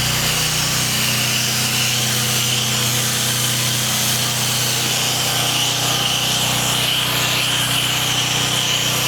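Pressure washer running steadily while water sprays from the wand, laying water down to pre-wet surfaces: a constant machine hum under a loud hiss of spray.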